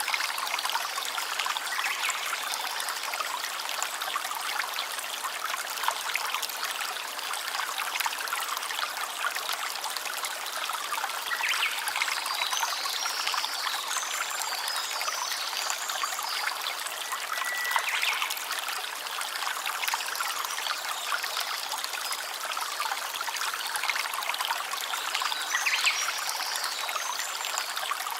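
Stream water trickling and running steadily, with a few brief high chirps around the middle and again near the end.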